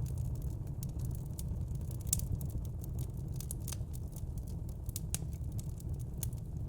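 Fire crackling: irregular sharp crackles and pops, several a second, over a steady low rumble.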